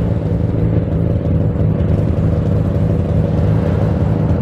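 Car engine and road noise heard from inside the cabin while driving, the engine holding a steady note at an even speed.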